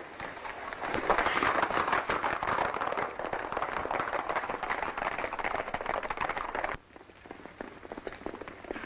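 Horses galloping, a dense clatter of hoofbeats that drops suddenly near the end to a thinner, quieter run of hoofbeats.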